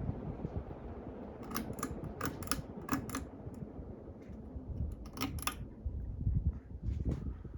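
Hunter Mariner 52-inch ceiling fan running, its airflow making a steady low rumble, with a series of sharp clicks in two clusters, about a second and a half in and again past five seconds.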